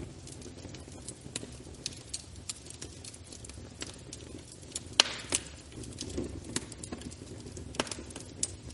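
Wood fire in a fireplace crackling: irregular sharp pops over a low steady rumble, with one loud pop about five seconds in followed by a brief hiss.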